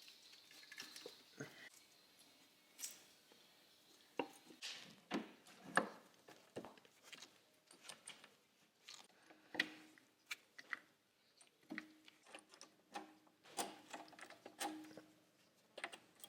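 Scattered light clicks and knocks from hand tools and metal parts being handled during engine installation work, at irregular intervals.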